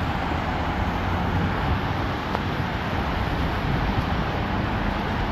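Heavy rain pouring down on a city street, a steady dense hiss that stays even throughout.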